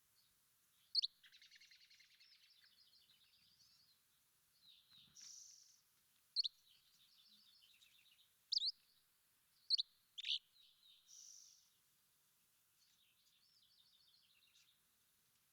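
Songbirds singing: several short, sharp upward-sweeping whistled notes, the loudest about a second in and again around the middle, between quieter stretches of fast trilled twittering.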